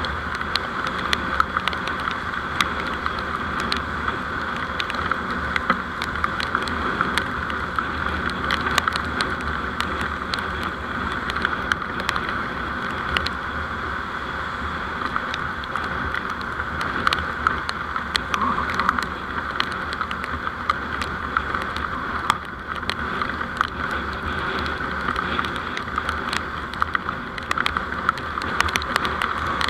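Steady road and engine noise of a moving vehicle picked up by a dashcam microphone, with many short faint clicks scattered through it.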